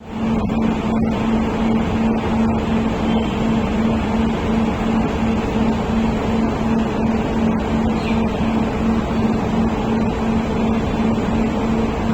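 Heavy construction machinery running steadily under load, with a loud, evenly pulsing hum, typical of the diesel engine of a crane lifting and lowering an excavator.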